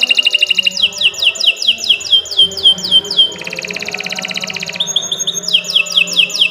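Domestic canary singing one long, unbroken song. It opens with a fast trill, then about six quick downward-sweeping notes a second, then another fast buzzing trill, and ends with more downward sweeps.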